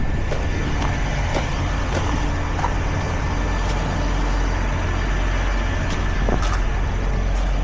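Semi-truck engine running steadily with a low hum, with scattered light clicks and knocks over it.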